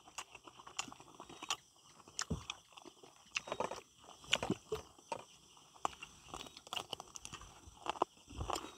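People chewing and biting into a chicken dish and sticky rice eaten by hand: faint, irregular small crunches and sharp clicks.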